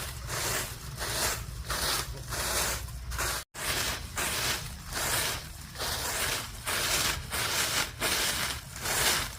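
Broom sweeping in steady, even strokes, about three every two seconds, with a brief dropout about three and a half seconds in.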